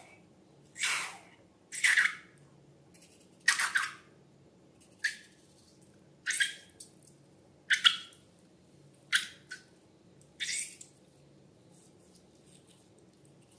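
Slime and balloons being handled in a slime-making session: about eight short noisy bursts, roughly one every second and a half, that stop a couple of seconds before the end.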